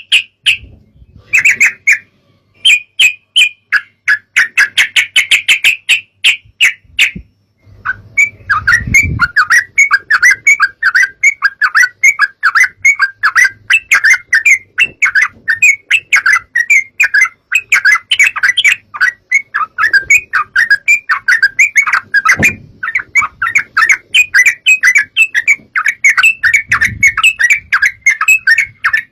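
Yellow-vented bulbul (trucukan) calls: rapid, repeated chirping notes in a continuous chatter, with a brief pause about seven seconds in.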